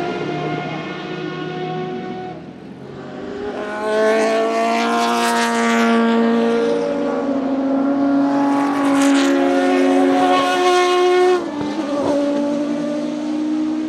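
Historic Group C prototype race cars at speed, their engines passing by. The engine note swells about four seconds in and stays loud and high for several seconds, then drops off suddenly near the end as the throttle comes off, with more engine sound going on after it.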